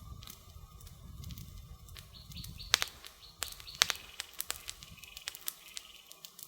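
Wood fire crackling, with sharp irregular pops, the two loudest a little under three and four seconds in, over a low rumble that fades out near the end. Birds chirp faintly in the background.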